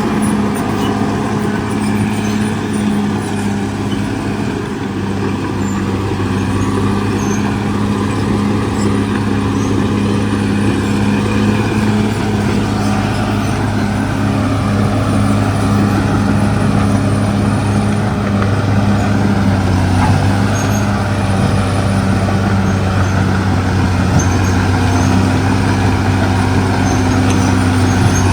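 Caterpillar D6R XL bulldozer's diesel engine running steadily, a deep, even drone that eases slightly about four seconds in and then holds.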